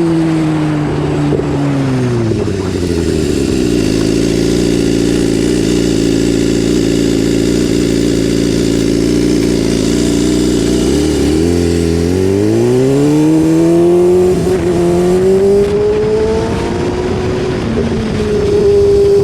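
BMW S1000RR inline-four motorcycle engine. The revs drop over the first few seconds and hold at a steady low speed for several seconds, then climb again from about twelve seconds in and stay up.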